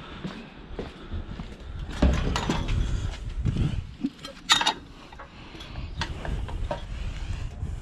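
Pieces of scrap metal being handled and sorted into piles, clanking and clinking irregularly, with a sharp metallic clink about four and a half seconds in.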